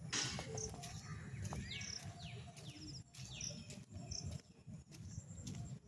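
Small birds chirping, with a run of quick downward-sliding calls in the middle, over irregular footstep clicks on a paved path and a steady low rumble.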